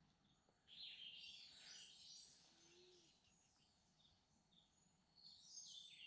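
Faint wild birdsong: a cluster of high chirps and twitters about a second in and another near the end, with one short low note in between.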